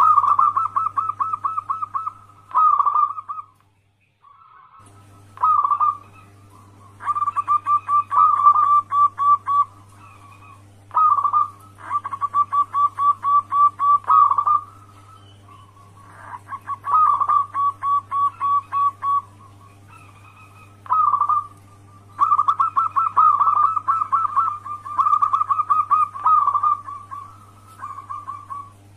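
Zebra dove cooing in repeated phrases of rapid staccato notes, about five a second, with short pauses between phrases. It is a recorded lure song of the kind played to call in other zebra doves.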